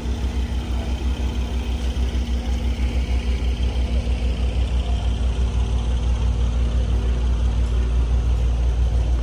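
A car engine's low rumble, pulsing about five times a second, growing slightly louder toward the end.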